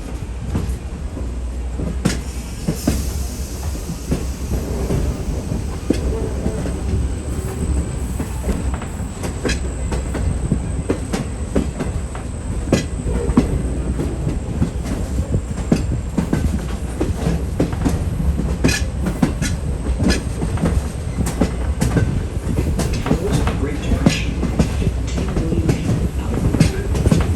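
Passenger train rolling along at speed, heard from aboard: a steady low rumble with wheels clicking and clattering irregularly over rail joints.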